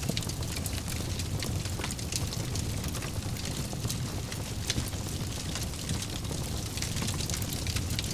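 Fire in a fireplace crackling: frequent small sharp crackles and pops over a steady low rumble of flames.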